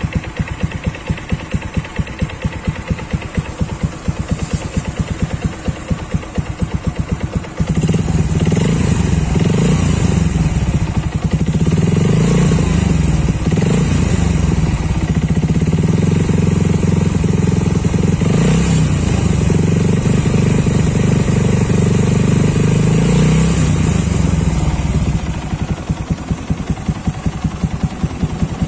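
Yamaha Jupiter MX 135's single-cylinder four-stroke engine through an aftermarket R9 Misano exhaust with its dB killer fitted: idling with a rapid even pulse, then held at higher revs and louder for about seventeen seconds from around eight seconds in, then settling back to idle.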